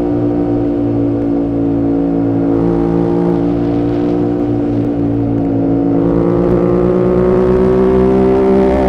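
Yamaha YZF-R7's 689 cc parallel-twin engine running through an aftermarket M4 exhaust, held at nearly steady revs for about six seconds, then rising gradually as the bike accelerates.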